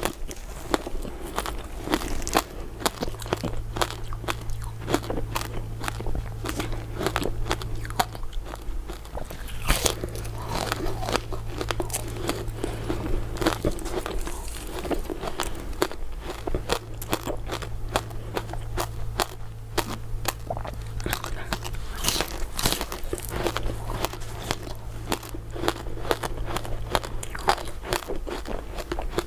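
Close-up crunching and biting of hard, brittle crystal ice dessert pieces, a dense run of irregular crackling bites and chews. A steady low hum underneath cuts in and out several times.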